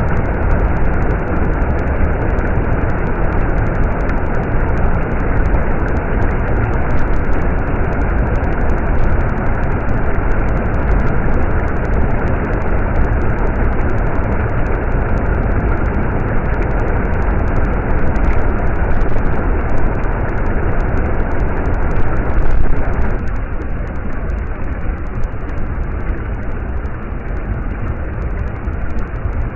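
Steady rush of flowing stream water, easing slightly in level about three-quarters of the way through.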